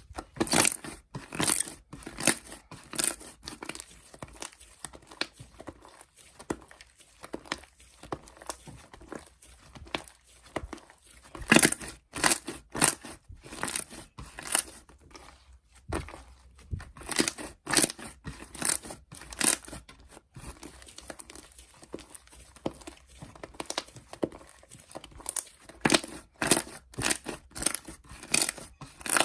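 Milk chip bread slime being squished, stretched and poked by hand, giving irregular sticky crackles and sharp pops, often in quick clusters with quieter stretches between.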